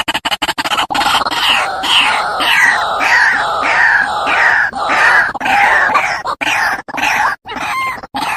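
A bird calling harshly and repeatedly: short, rough, falling notes at a little under two a second, starting about a second in, turning into a few clipped, choppy notes near the end.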